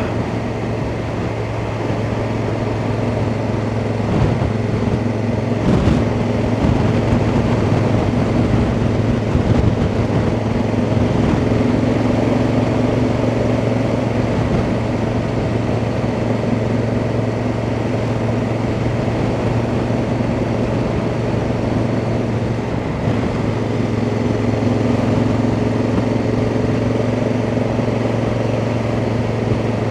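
Honda Africa Twin motorcycle engine running at a steady cruising pace while riding, with a steady rush of wind and road noise over the engine hum.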